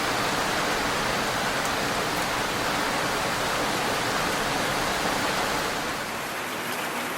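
Steady heavy rain falling, a dense even hiss without distinct drops, easing slightly about six seconds in.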